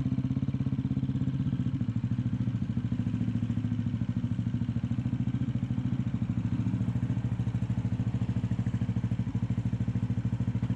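CCM Spitfire's single-cylinder engine on its standard exhaust, running steadily at low revs with an even pulsing beat as the bike rolls slowly to a stop.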